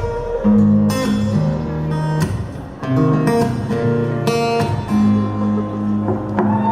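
Live pop band playing an instrumental passage without vocals: strummed acoustic guitar chords over held bass notes that change every second or so.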